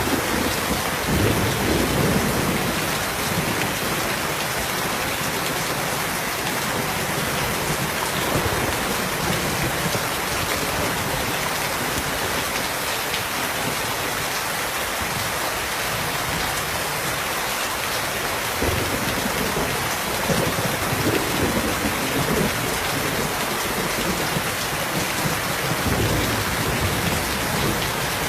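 Steady rain falling, an even hiss, with low rumbles swelling near the start and again about two-thirds of the way through.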